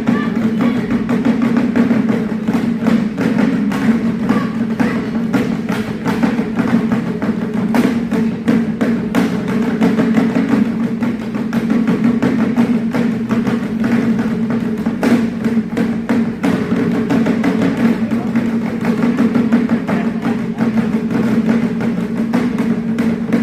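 Wadaiko taiko drum ensemble playing, a dense, continuous run of drum strokes with sharp stick clicks among them.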